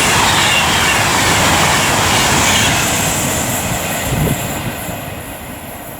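Class 390 Pendolino electric train passing, a loud rushing noise with faint falling whines. It fades steadily over the last few seconds as the train moves away.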